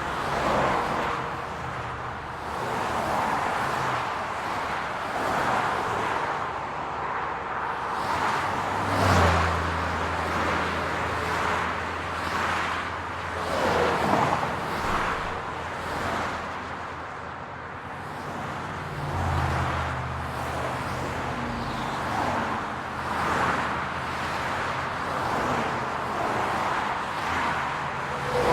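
City road traffic: a steady wash of tyre and engine noise that swells every few seconds as vehicles go by. A low engine hum comes in about nine seconds in and fades a few seconds later, then returns from about nineteen seconds in.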